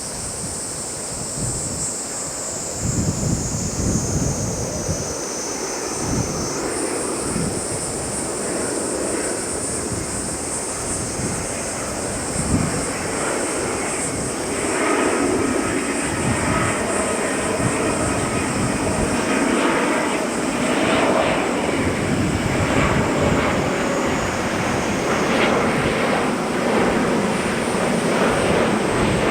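Jet airliner engines running as the aircraft passes: a steady rumble under a high whine that falls in pitch over the first few seconds.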